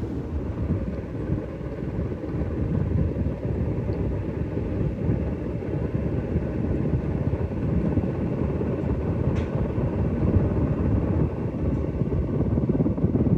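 Encon Traditional 44-inch ceiling fan running on high speed: a steady rush and low rumble of air from the blades, with a faint motor hum.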